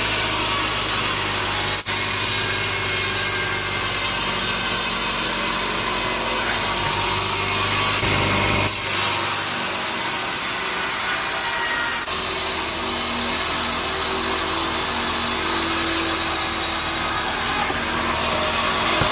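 Sawmill band saw blade cutting through teak wood: a loud, steady sawing noise, with a low motor hum underneath for roughly the first half. A few brief breaks interrupt it.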